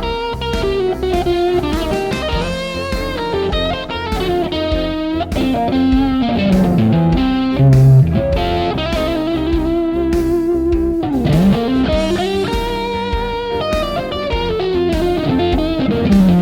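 Fender Deluxe Stratocaster with N3 Noiseless stacked-humbucker pickups, played through an amp: a blues lead line of single notes, with wavering vibrato and notes that bend up and fall back in pitch several times.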